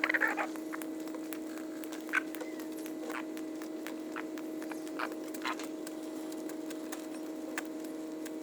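Chickens pecking at feed, making irregular short taps and clicks, with a brief cluck at the start, over a steady low hum.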